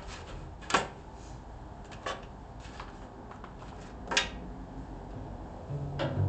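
Three sharp clicks over faint rustling as a clip and book pages are handled while trying to clip a book open, with a low hum starting near the end.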